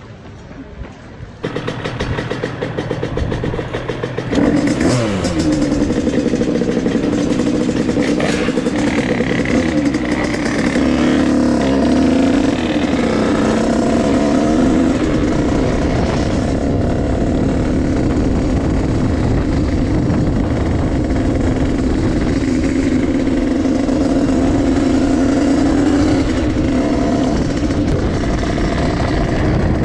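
Two-stroke big-bore dirt bike engine under way, heard from the rider's seat. It comes in about a second and a half in, revs up around four seconds in, then holds high, fairly steady revs.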